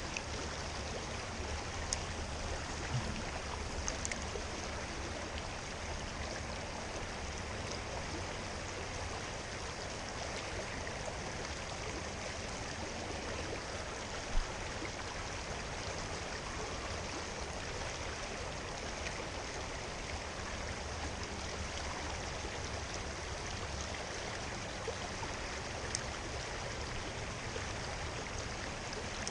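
Creek water running steadily, an even rushing hiss, with a single short low bump about halfway through.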